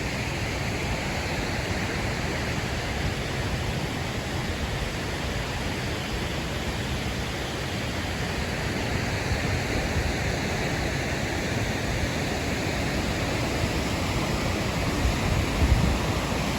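Steady rushing roar of a waterfall. The noise holds even throughout, with a brief low thump near the end.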